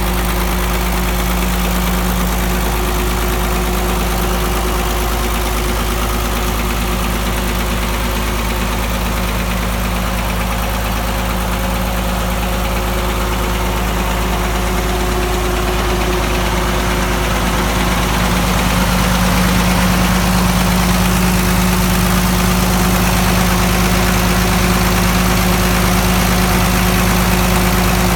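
Case 930 tractor engine idling steadily, becoming slightly louder about two-thirds of the way through.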